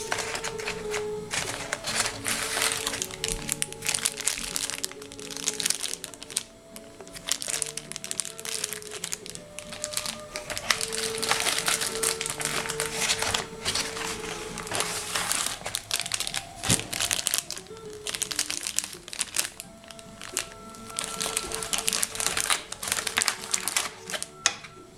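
Background music with held notes, over the crinkling and rustling of packaging being handled as a phone is unboxed.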